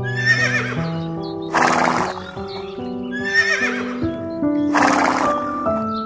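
A horse whinnying twice, each call a wavering high neigh followed by a loud breathy blast, over background music.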